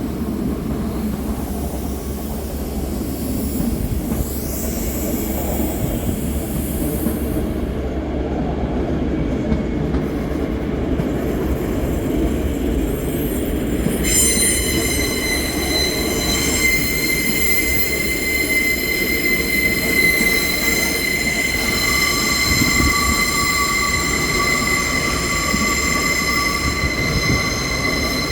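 A train in the station, with a steady low rumble; about halfway through, a high steady metal squeal from the train sets in and holds, and a second, lower squeal joins it a few seconds later.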